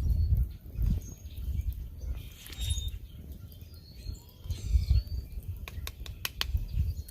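Faint bird chirps and short calls outdoors, over repeated low rumbling bumps and a few sharp clicks.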